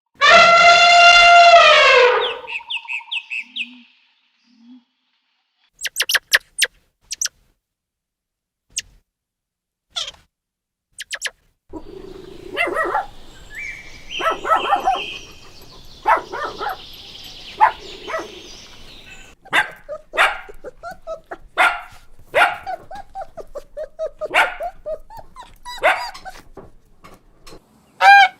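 A loud, drawn-out animal call at the start, then after a few seconds of sparse clicks a long run of short dog barks and yips, many in quick succession.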